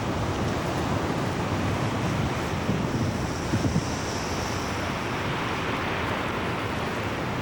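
Steady outdoor wind buffeting the microphone, over a rushing sound like surf.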